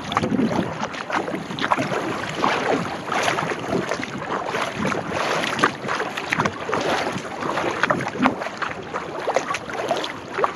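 Kayak paddle strokes in choppy water, with irregular splashing and water slapping, and wind buffeting the microphone.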